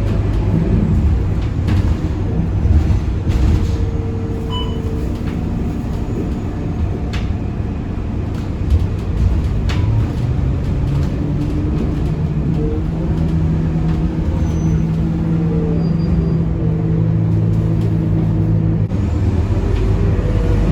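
Scania K230UB city bus heard from inside the cabin while driving: its diesel engine runs steadily, its note shifting a few times and settling lower near the end, with short clicks and rattles from the bodywork throughout.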